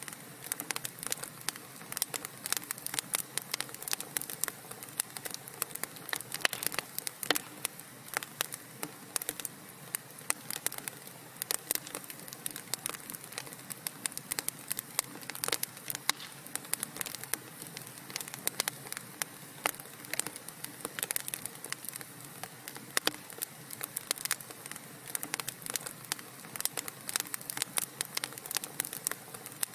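Wood fire burning in a fireplace, crackling with many small irregular pops over a steady soft background noise.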